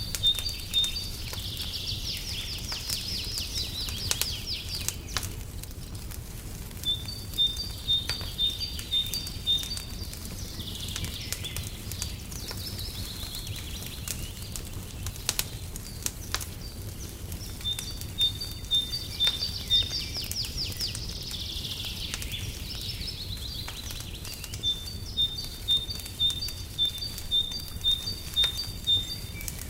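A songbird singing the same phrase over and over, roughly every ten seconds: a run of quick, evenly spaced high chirps alternating between two pitches, then a rapid trill. Under it, a fireplace crackles with scattered sharp pops over a steady low rumble.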